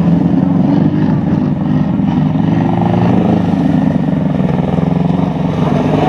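Off-road rally car engine running at steady revs.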